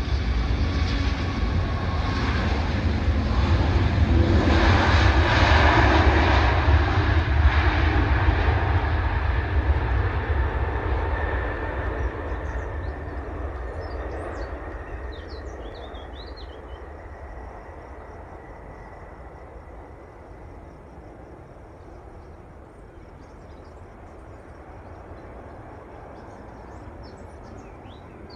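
Four Rolls-Royce Trent 900 turbofans of an Airbus A380 at takeoff power as the jet departs and climbs away. The jet noise swells to its loudest about five seconds in, then fades steadily as the aircraft moves off. Birds chirp faintly in the second half.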